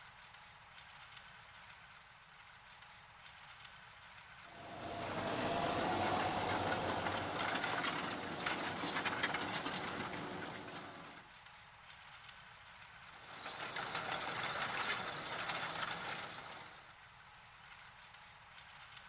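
Tractor working a Thyregod TRV row-crop hoe across a field, with engine and machine noise. It swells up and fades twice, first about five seconds in and again about thirteen seconds in.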